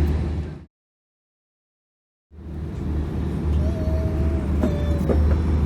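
Steady low cabin drone of an Airbus A340-600 standing still on the taxiway. It fades out about half a second in and drops to complete silence for about a second and a half, then fades back in, with a faint wavering tone and a couple of light clicks later on.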